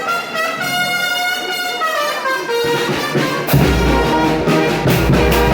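Mexican banda brass band playing: trumpets and trombones hold long notes, then about three and a half seconds in the full band comes in louder with a deep bass and a drum beat.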